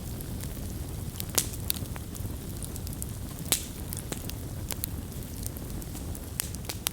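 Wood campfire burning, with a steady low rumble of flames and irregular sharp crackles and pops of burning wood, the loudest about one and a half seconds in and halfway through.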